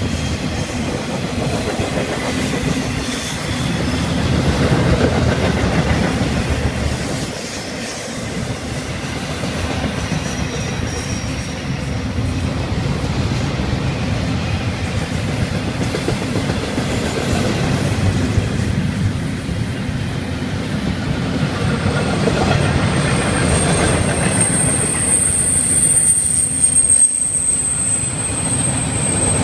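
Florida East Coast Railway intermodal freight cars rolling past close by, a steady rumble of steel wheels on rail. A thin, high squeal comes in near the end.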